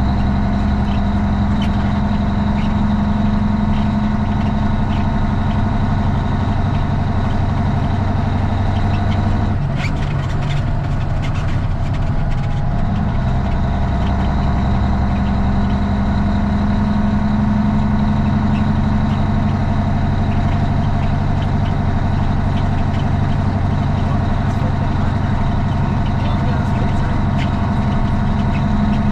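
Straight-piped Cummins ISX inline-six diesel in a Kenworth T800 running steadily, heard from inside the cab. The engine note drops briefly about ten seconds in and returns about three seconds later.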